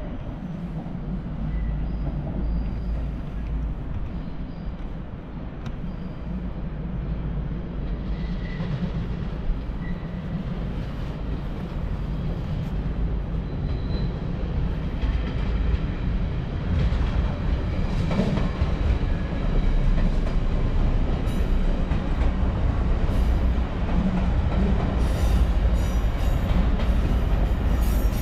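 Train running on the station tracks: a steady low rumble that slowly grows louder, with wheel-on-rail clatter and faint squeals building in the second half.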